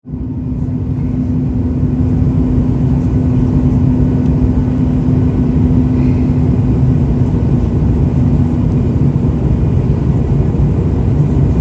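Airliner cabin noise during landing: a loud, steady low rumble from the engines and airflow, with a steady hum that fades out about nine seconds in.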